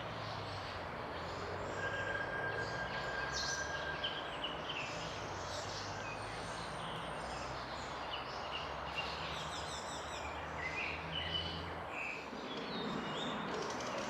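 Small birds chirping and calling again and again over a steady background hum, with one thin whistled note held for about two seconds early on. A lower rumble comes up near the end.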